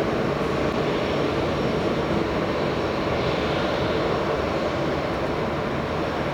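Steady rumble of an Airbus A320's jet engines as it lands, holding an even level with no rise or fall.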